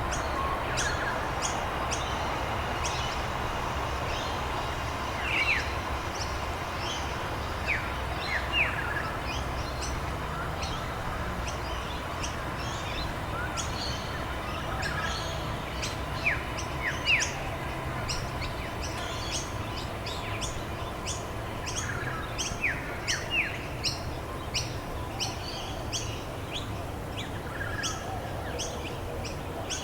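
Small birds chirping and calling, many short quick notes that come thicker in the second half, over a steady hiss of rain.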